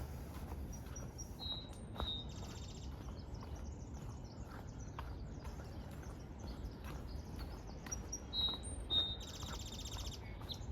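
A songbird sings the same short song twice, a few chirped notes running into a buzzy trill, over steady footsteps on a trail and a low, even background rumble.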